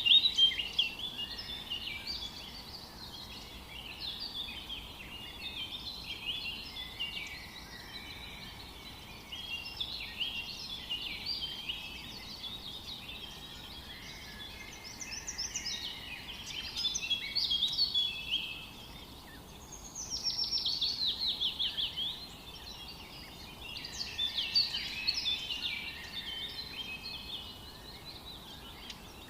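Several songbirds singing: a busy run of chirps and short whistled phrases, with one bird's fast trill of rapidly repeated notes falling in pitch about twenty seconds in, over a faint steady hiss of background noise.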